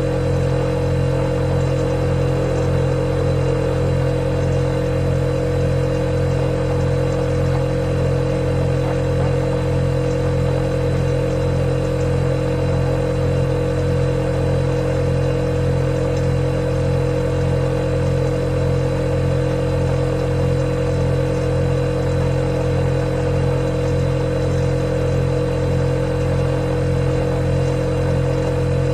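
Refrigerator compressor running with a steady, unchanging low hum and a faint hiss.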